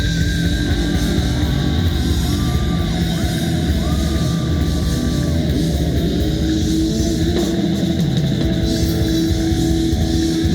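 Live rock band playing loudly: electric guitar holding and bending long notes over drums and bass.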